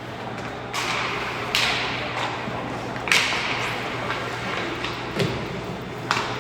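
Ice hockey play in a rink: several sharp knocks and clacks of sticks, puck or boards, each trailed by a hissing scrape of skate blades on ice, over the rink's steady low hum.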